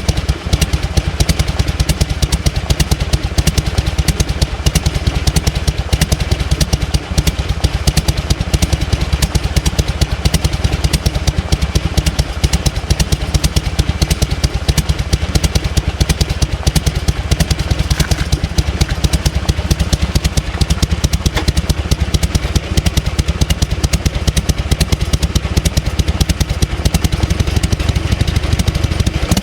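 1998 Harley-Davidson Fat Boy's Evolution 1340 cc V-twin idling with its uneven 'potato-potato' lope: a steady, rapid run of exhaust pulses.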